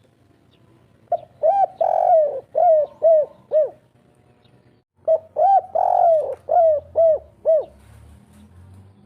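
Spotted dove (derkuku) singing its 'kuk 3' coo twice. Each phrase is a run of about seven short, arching coos with one longer, stronger note near the start.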